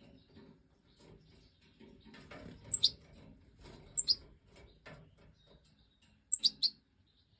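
Goldfinch of the large Stieglitz Major form calling with short, high chirps: one about three seconds in, another a second later, and a quick run of three near the end.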